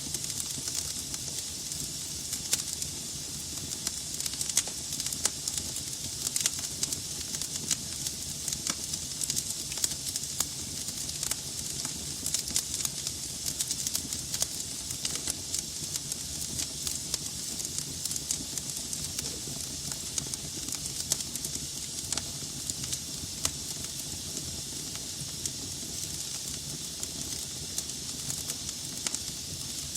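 Log fire burning in a fireplace: a steady hiss with frequent sharp crackles and pops from the burning wood.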